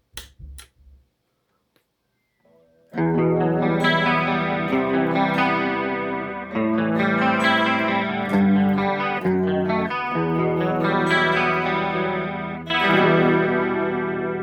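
A few short clicks, then after a brief silence an electric guitar starts playing sustained chords through a chorus pedal about three seconds in, the chords re-struck every few seconds.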